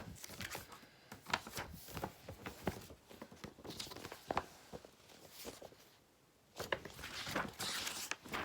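Light handling noises: scattered soft clicks and paper-like rustling, with a longer rustle in the last two seconds.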